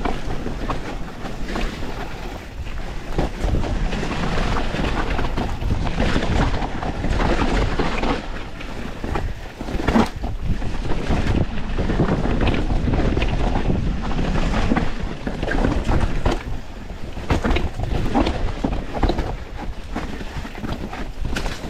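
Wind rushing over the microphone during a fast mountain-bike descent on a YT Industries Capra 4, with tyre noise on dirt and frequent sharp knocks and rattles from the bike going over rough ground.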